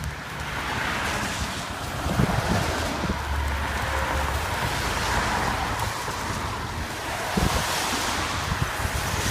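Wind buffeting the microphone: a steady rushing noise with low rumbling gusts.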